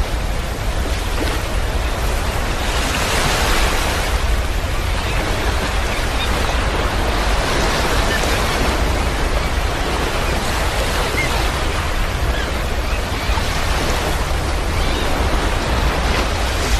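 Sea wind blowing across the microphone: a steady rushing with a heavy low rumble, swelling every few seconds.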